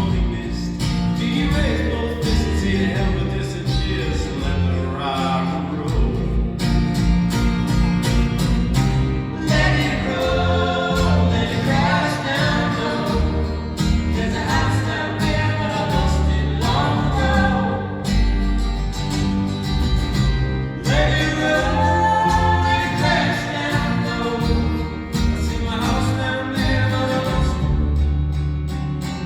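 Live music: singing over a plucked-string accompaniment and sustained low bass notes.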